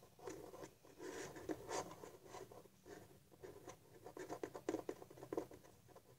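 Faint scratching, rustling and small irregular clicks of hands handling a Funko Pop vinyl figure and its packaging.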